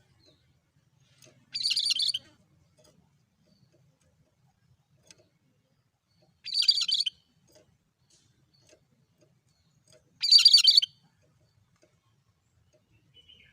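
Cucak kerinci bulbul calling: three short, identical bursts of song, one about every four seconds, each about half a second long and high-pitched, in a monotonous repeated pattern.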